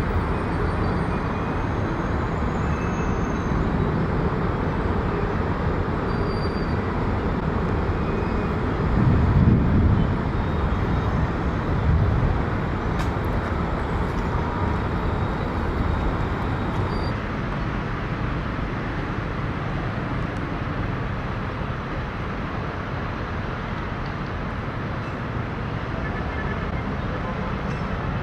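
Steady jet airliner engine noise, a little louder about ten and twelve seconds in and easing off somewhat in the second half.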